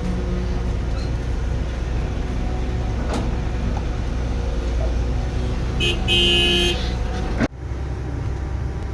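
Heavy construction machine's diesel engine running steadily, with a short vehicle horn toot about six seconds in. The sound breaks off abruptly soon after and an engine picks up again.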